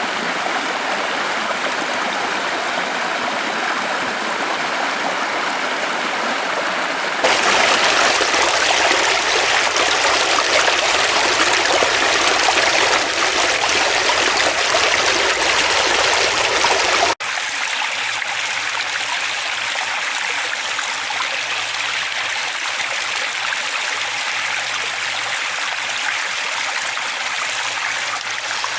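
Forest stream flowing, a steady rush of water. About a quarter of the way in it turns abruptly louder and fuller, then after a brief dropout a little past halfway it is quieter again, as the recording cuts between takes.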